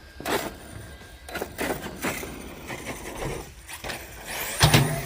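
Electric RC stunt truck driving hard: short bursts of motor and tyre noise, then a heavy thump near the end, likely a landing.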